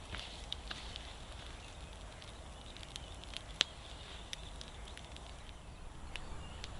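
Campfire crackling, with scattered irregular pops and one sharper snap around the middle.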